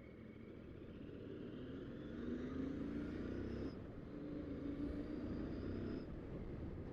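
Royal Enfield Continental GT 650's parallel-twin engine accelerating in traffic over road noise: the engine note rises in pitch, drops, rises again, and eases off near the end.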